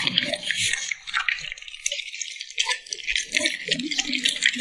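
A dog eating: wet chewing and lip smacking, a dense run of quick, irregular crackles and smacks.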